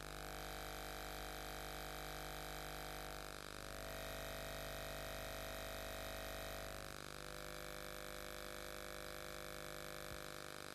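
Steady electrical hum with hiss and no programme sound, the low background of a VHS tape's blank stretch. The hum's tone shifts slightly about three and a half and seven seconds in.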